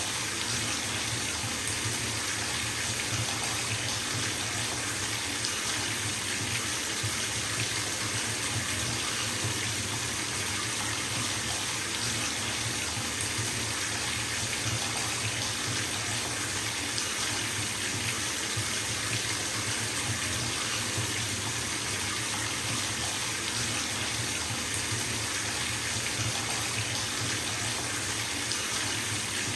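Bathtub filling from a running tap: a steady, even rush of water splashing into the tub, unchanging throughout.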